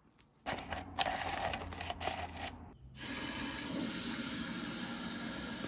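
Clicks and rattling for about two seconds, then from about three seconds in the steady hiss of a Hamilton Beach drip coffee maker brewing.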